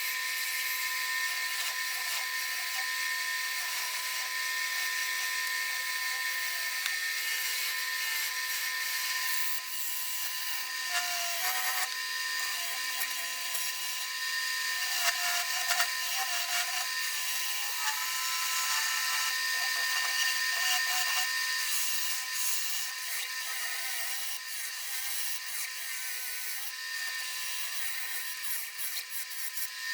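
Wood lathe turning a red oak bowl blank while a bowl gouge cuts it: a steady hiss of cutting over a constant motor whine, with a few sharper clicks near the middle.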